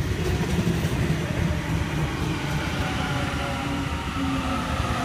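Sydney Trains Waratah (A set) electric train pulling into a platform: a steady low rumble with a faint high tone that grows stronger near the end.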